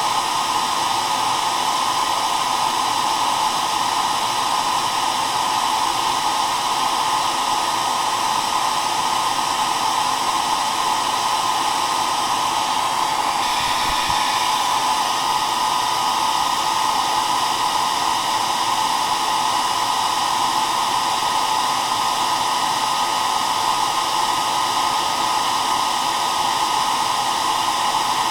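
Hair dryer running steadily: a continuous rush of blown air with a steady whir, unchanging in level.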